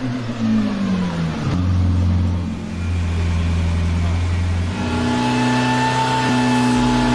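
Shelby GT500's V8 engine: the revs fall away over the first second or so, then it runs at a steady low pitch. About five seconds in, the note changes to a higher, steady tone.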